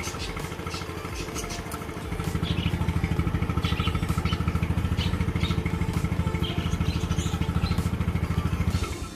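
Motorcycle engine idling just after starting, getting louder about two seconds in, then shutting off abruptly near the end.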